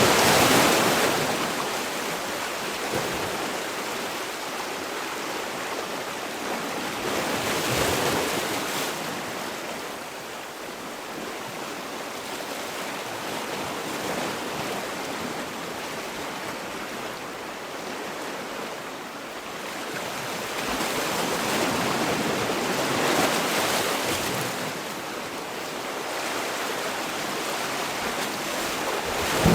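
Sea waves breaking and washing on the shore, a continuous surf that swells into louder breaks every several seconds and eases back in between.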